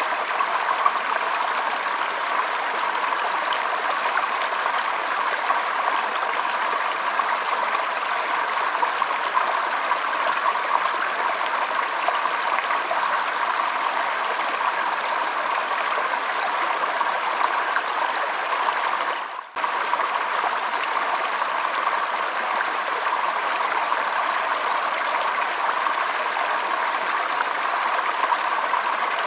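Shallow stream flowing over stones, a steady trickling and burbling of water, with a short dip in level about two-thirds of the way through.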